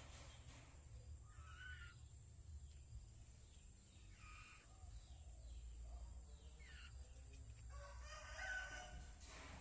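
Faint bird calls over a low hum: a few short calls, a couple of seconds apart, the last and longest near the end.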